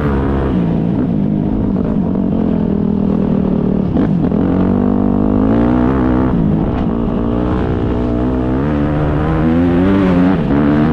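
Motocross dirt bike engines revving, their pitch repeatedly rising and falling.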